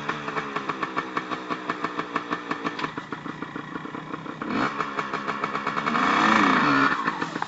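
Yamaha RT100's single-cylinder two-stroke engine running on a cold start with the choke on, with a short rev about four and a half seconds in and a longer rev that rises and falls around six seconds in. The engine then dies away near the end.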